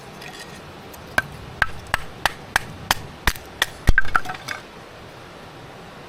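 A blade chopping against wood: about eight sharp knocks at roughly three a second, then a louder, quicker cluster of knocks and clatter around the middle.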